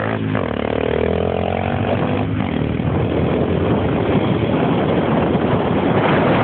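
Motorcycle engine running under way, its pitch shifting over the first two seconds, then buried in a steady rush of wind and road noise.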